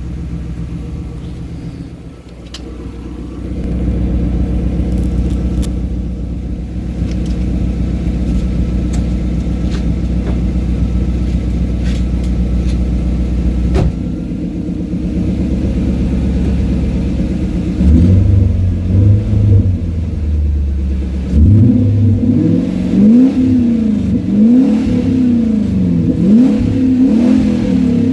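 Toyota Crown Majesta V8 exhaust idling steadily, then revved from about two-thirds of the way in: one longer rev followed by a series of quick throttle blips, each rising and falling in pitch.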